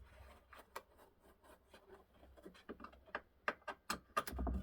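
Irregular small clicks and taps of a clock's parts being handled and worked on, growing busier toward the end, with a low thump just before it ends.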